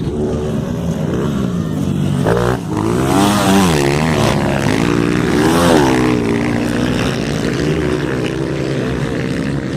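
Several motocross dirt bike engines revving on the track, their pitches rising and falling as riders work the throttle and pass. The bikes are loudest about three to four seconds in and again near six seconds.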